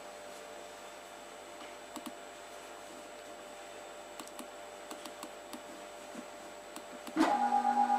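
Faint steady hum with scattered light clicks, then about seven seconds in a CNC machine's stepper motors suddenly start sounding loud, steady pitched notes, beginning a tune played on the motors.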